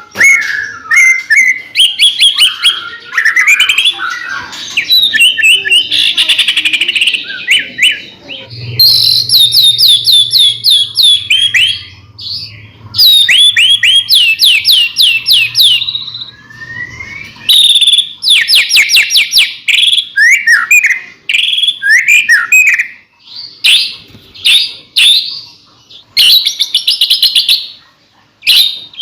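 White-rumped shama (murai batu) singing a loud, varied song of fast repeated whistled notes and trills in quick phrases with brief pauses between them. A low hum sits underneath for several seconds in the middle.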